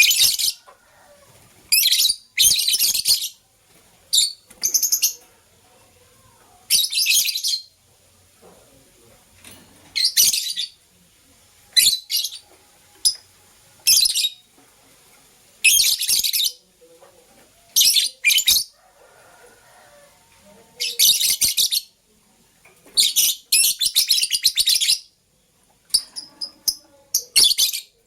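Lovebirds chirping in repeated high-pitched bursts of a second or less, every second or two, with short quiet gaps between.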